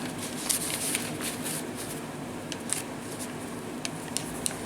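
Paper pages, tags and inserts of a handmade junk journal rustling as they are turned and handled, with a few light paper ticks scattered through.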